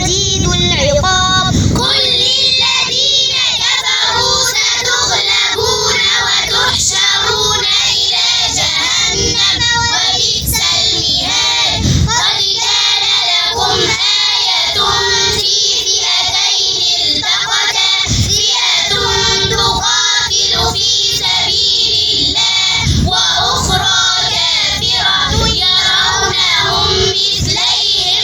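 Young girls' voices chanting Quran recitation in a melodic, drawn-out style, with more than one voice at once.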